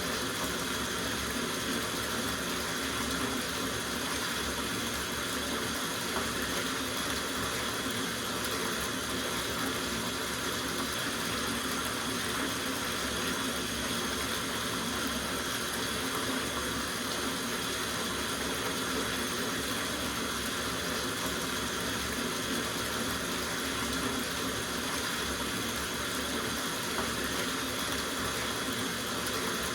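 Tap water running steadily into a soak bathtub as it fills, an even, unbroken rush.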